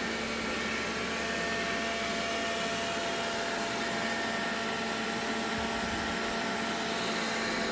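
Xiaomi robot vacuum cleaner running: a steady suction-fan noise with a constant motor whine.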